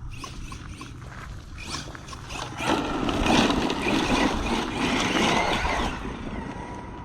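Arrma Mojave 6S RC truck's brushless motor and tyres as it is driven hard, loudest from about three to six seconds in as it runs close by, then fading.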